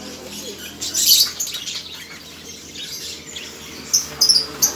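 Lovebirds chirping and squawking, with a harsh burst of calls about a second in and a run of quick, sharp chirps near the end.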